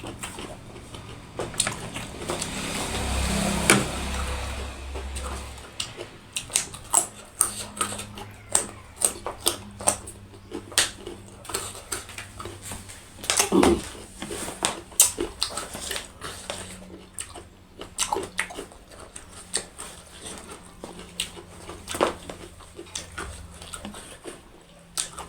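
Close-up eating sounds: a person chewing and smacking, with many short wet clicks and cracks throughout, and a stretch of steadier noise about two to four seconds in.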